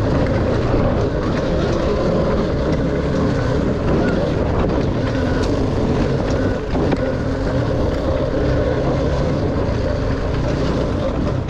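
Dirt bike engine running steadily while riding, with wind noise on the microphone.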